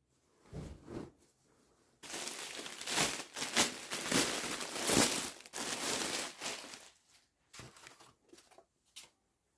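Plastic packaging crinkling and rustling as it is handled and pulled open. A dense crackling stretch lasts about five seconds, with sharp crackles, and is followed by a few light ticks.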